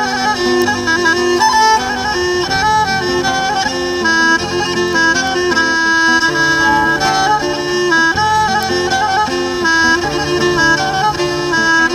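Instrumental break in a Black Sea folk song: a quick, ornamented melody on a reedy wind instrument over a bass line, with no singing.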